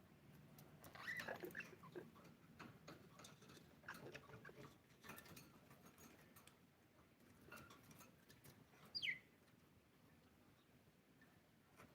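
Faint budgerigar chirps mixed with soft scratching and clicking, with one clear chirp sliding downward about nine seconds in.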